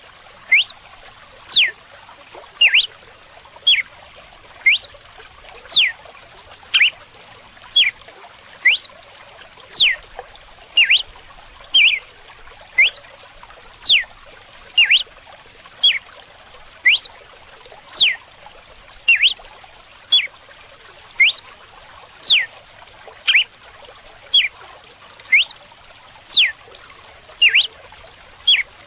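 Red-cowled cardinal singing its whip song ('canto de açoite'): a steady series of short, sharp whistled notes, about one a second, some sweeping steeply in pitch, over the faint trickle of running water.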